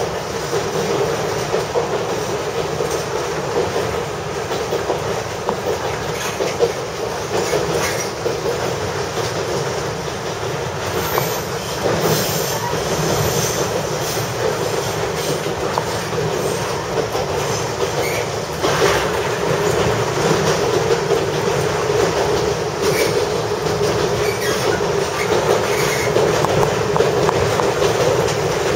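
Interior sound of a diesel railcar running on a rough rural line: a steady engine and running drone, with the wheels clicking over rail joints. A brief high wheel squeal comes about twelve seconds in.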